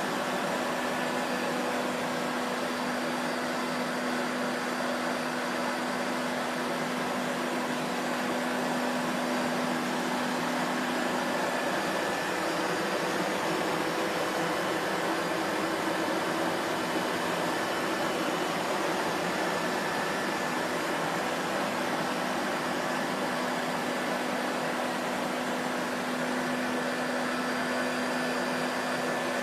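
Vacuum cleaner motor running steadily, a continuous rushing noise with a low hum that drops away for a few seconds midway and comes back.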